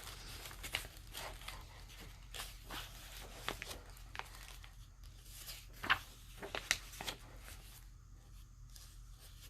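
Pages of a paperback book being turned and flipped through: soft, irregular paper rustles and flicks, with a couple of sharper page flicks a little after the middle.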